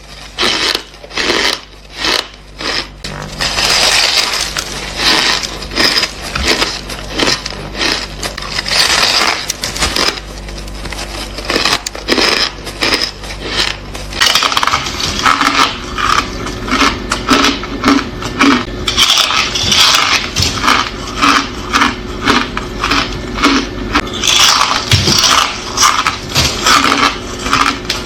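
Close-miked crunching of ice being bitten and chewed: a dense run of sharp, crisp cracks with a steady chewing rhythm.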